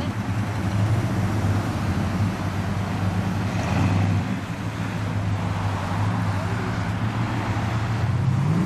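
A car engine running with a low, steady note, with traffic passing on the road. Just before the end an engine revs up, its pitch rising.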